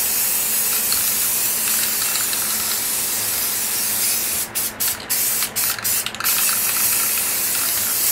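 Aerosol spray-paint can spraying black paint: a long continuous hiss, then from about halfway a series of short bursts with brief pauses between them.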